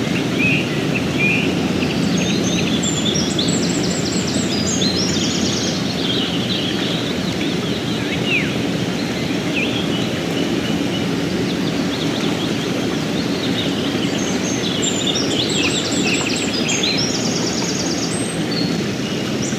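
River water flowing steadily, with songbirds chirping in quick high trills in two spells, from about two seconds in and again from about fourteen seconds in.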